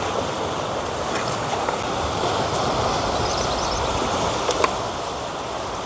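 Steady rushing of sea water washing on the shore, swelling a little and easing off, with a couple of light clicks about four and a half seconds in.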